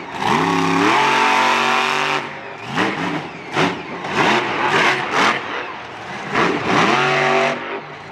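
Monster truck engine revving hard. It climbs sharply to high revs and holds there for about two seconds, then gives a string of short, quick revs, and climbs again to a long high rev near the end.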